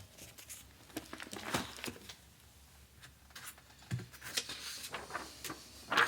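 Close-miked rustling and crinkling with scattered soft clicks, coming irregularly; the loudest rustle comes at the very end.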